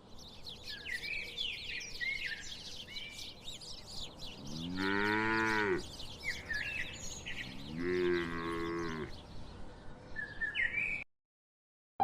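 A cow mooing twice, each moo a little over a second long and falling in pitch at the end, over steady bird chirping. The sound cuts off suddenly about a second before the end.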